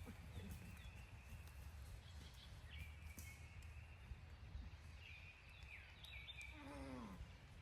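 Faint outdoor ambience: a small bird repeats short, downward-sliding chirps every second or so over a steady low rumble. About seven seconds in, a single lower call falls in pitch.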